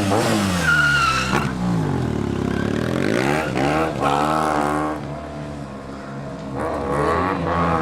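Motorcycle engine revving up and down over and over, its pitch falling and rising in long sweeps. There is a brief high squeal about a second in.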